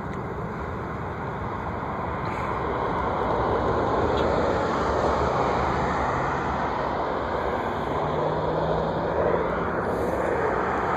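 Jet engine noise from a Boeing 717 airliner landing, rising over the first four seconds or so and then holding steady.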